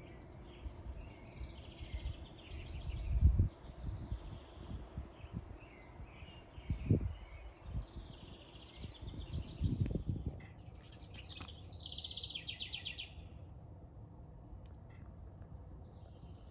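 Small birds chirping and calling repeatedly in a backyard, with three short low rumbles, louder than the birdsong, about three, seven and ten seconds in.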